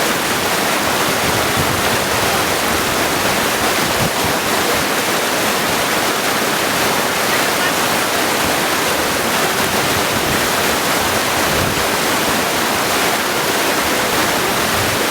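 Mountain stream rushing steadily over stones, a dense, even flow of water.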